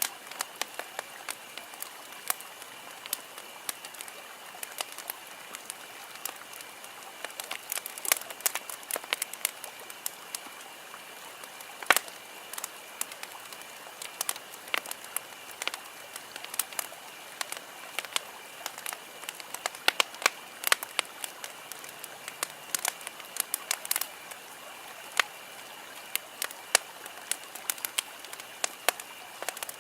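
Wood campfire crackling, with sharp irregular pops of burning wood several times a second over a low steady hiss. A faint steady high-pitched hum runs underneath.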